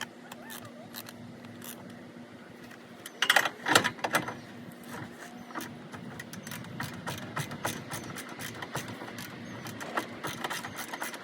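Hand tools knocking and clicking against metal parts. A burst of loud knocks comes about three seconds in, followed by quick irregular clicking, over a faint steady hum.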